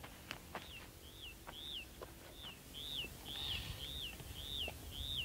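A bird calling a short up-and-down note over and over, about two a second.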